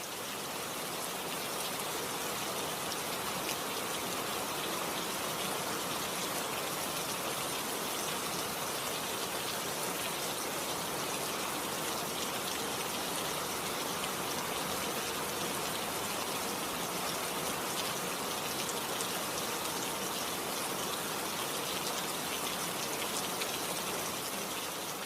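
River water flowing and rushing, a steady, even hiss of moving water.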